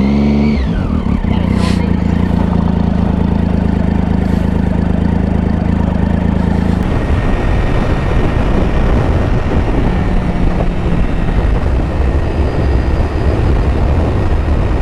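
Motorcycle engine idling with a steady low hum. About seven seconds in it pulls away, and the sound turns to engine running under way with rushing wind noise.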